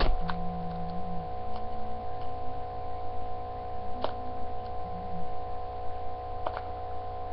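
A few sharp clicks or taps, spaced seconds apart (at the start, about four seconds in and about six and a half seconds in), over a steady background hum of several tones.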